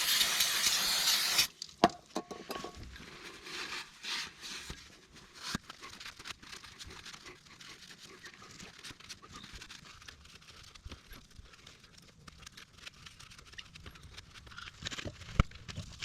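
A loud hiss of spray for about a second and a half, then a sharp metal clink with a brief ring, followed by faint scattered clicks and scraping from handling and cleaning steel pins and mounts.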